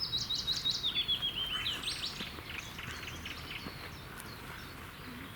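A songbird singing a fast run of notes that steps down in pitch over about two seconds and ends in a short flourish, followed by scattered fainter chirps from other birds.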